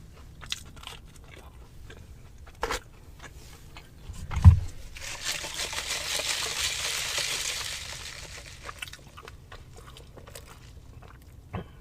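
Close-miked mukbang eating: a person biting and chewing crunchy fried food, with scattered sharp crunches. A low thump comes near the middle, followed by about three seconds of dense, loud crunching.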